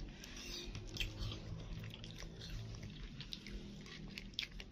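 Faint clicks and mouth sounds of a toddler eating apple slices, over a low, faint background hum.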